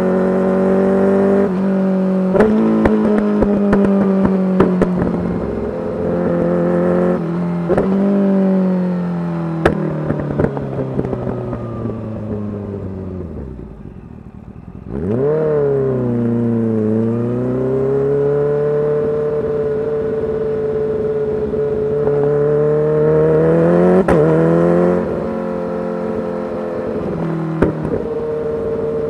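Kawasaki Ninja H2's supercharged inline-four through a full titanium exhaust, under way. The engine winds down with sharp pops and crackles over it, falls to a low lull about halfway, then picks up sharply on the throttle and holds a steady pull. It climbs again near the end and steps down as it shifts.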